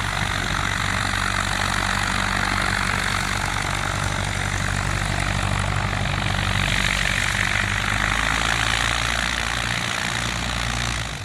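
Small propeller airplane's piston engine running steadily on the ground close by as it gets ready to take off, a constant drone with a low hum; it drops off just before the end.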